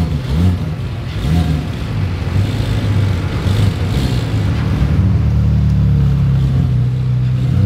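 BMW E46 coupe's straight-six engine running as the car rolls slowly past at low revs. There are a couple of light throttle blips in the first second or so, then it holds a steady note.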